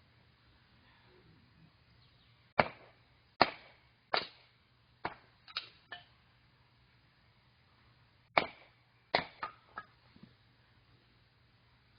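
Firewood being split or broken: about ten sharp cracks and knocks in two quick groups, some leaving a short ringing tail.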